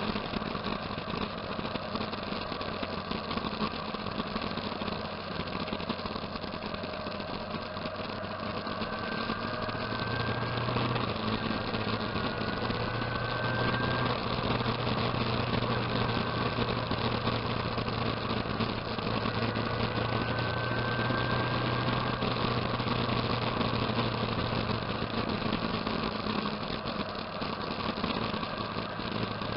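Motorcycle engine running steadily, with a constant low hum and a few faint rising whines.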